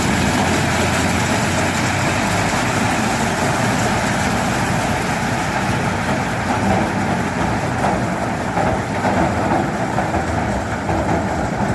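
Tractor-driven corn harvester running steadily, its engine and harvesting machinery making a loud, continuous clatter.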